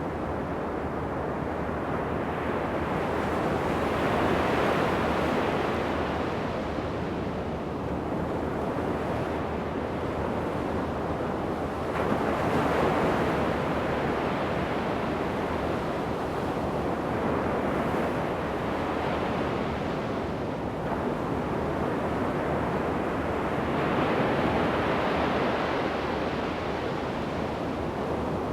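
Ocean surf breaking on a sandy beach, a continuous wash that swells as each wave breaks, about every several seconds, with some wind on the microphone.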